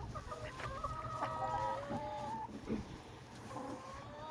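Several hens clucking and making drawn-out calls over one another.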